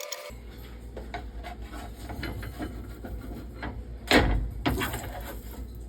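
Kitchen handling sounds from cooking pancakes: scattered light clicks, then a louder knock about four seconds in and a smaller one just after, over a steady low hum.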